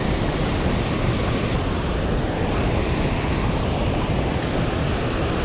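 Steady roar of rushing water released through a dam's floodgates, loud and unbroken, with some wind on the microphone.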